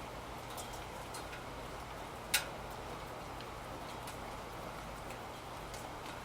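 Steady rain with scattered drops ticking, and one sharper click about two and a half seconds in.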